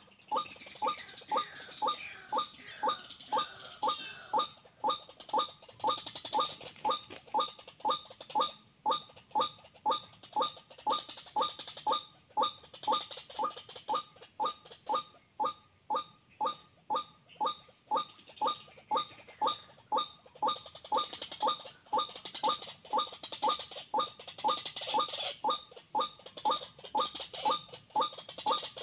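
White-breasted waterhen call played as a trapping lure, a harsh note repeated evenly about twice a second, over a steady high-pitched whine.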